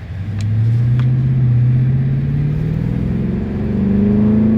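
Car engine accelerating under load, its pitch climbing steadily, with a brief dip in loudness about three and a half seconds in.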